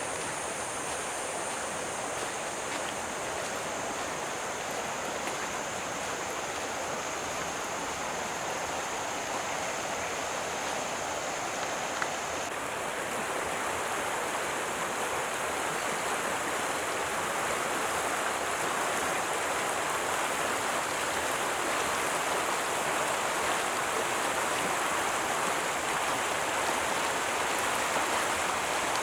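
Stream of running water, a steady rushing wash that grows slightly louder about twelve seconds in.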